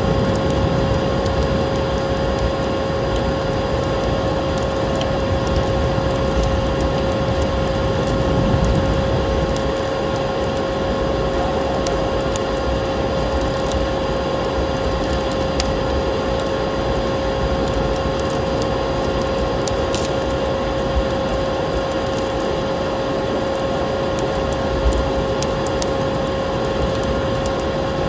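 Steady drone of a vacuum cleaner motor with a constant hum, over scattered small crackles of a wood fire.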